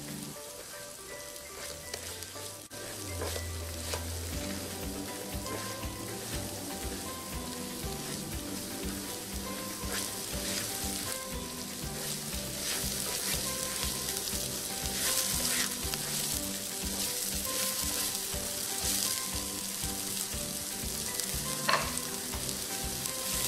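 Spiced masala paste sizzling as it fries in oil in a nonstick pan, stirred and scraped around with a silicone spatula, over light background music.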